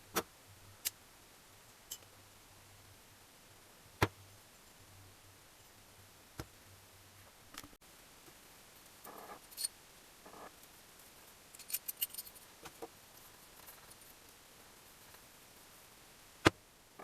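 Scattered sharp metallic clicks and light jingling clinks of small engine parts and hand tools being handled, with a cluster of clinks about nine seconds in and another around twelve seconds.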